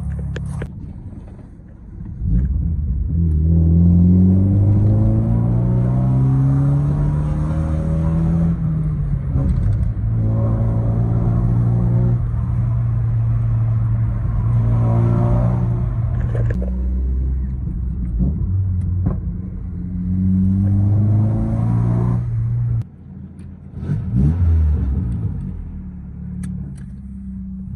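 Vauxhall Vectra engine pulling away and accelerating through the gears. The engine note rises, then drops and climbs again at each gear change, with a brief lift-off about three-quarters of the way through. The exhaust is loud because it is damaged and still awaiting new clamps and parts.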